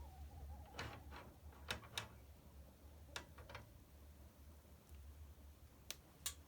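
Wood fire in a fireplace crackling: sparse sharp pops and snaps, a few in quick pairs, the loudest two near the end. A faint wavering whistle fades out in the first second.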